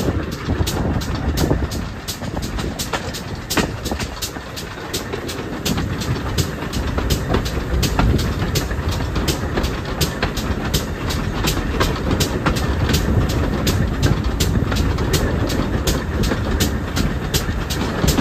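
Steam-hauled train running, a steady low rumble with a regular clicking about three times a second.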